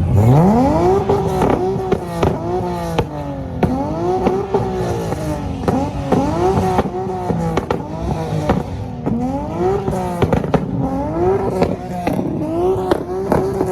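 A car engine revved hard again and again, about ten quick climbs in pitch that each hold briefly and drop back, with sharp pops from the exhaust between revs.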